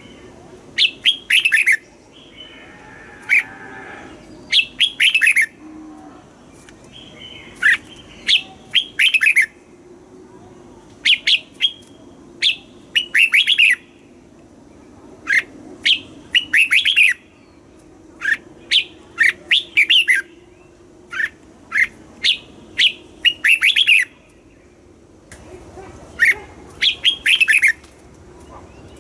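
Red-whiskered bulbul singing: short, rapid phrases of clear whistled notes, each phrase a quick run of falling notes, repeated every one to three seconds with brief pauses between.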